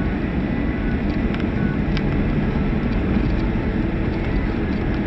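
Steady low rumble of a vehicle driving, heard from inside the cabin, with a faint hum of the engine running under it.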